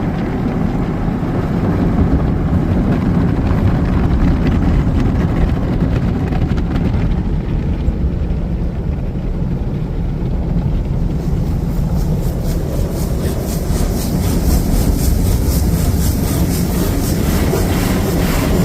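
Pico express car wash tunnel heard from inside the car: a steady low rumble of the wash equipment and the car on the conveyor. About eleven seconds in, a fast, fine ticking hiss joins it.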